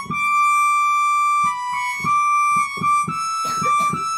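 Yamaha Motif XS8 synthesizer playing its trumpet voice: a single-line melody of held notes, moving to a new pitch about every half second.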